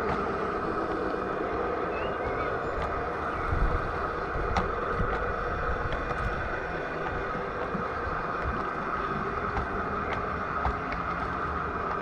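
G-scale garden railway train running steadily on its track, a continuous motor-and-wheel noise with a few small knocks.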